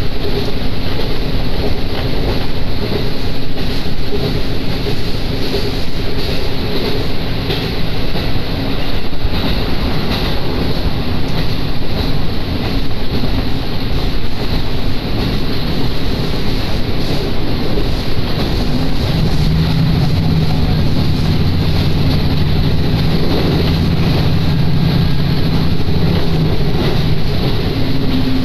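Diesel railcar running between stations, heard from inside: a loud, steady rumble of wheels on rail and engine. About two-thirds of the way through a deeper engine drone comes up and holds for several seconds.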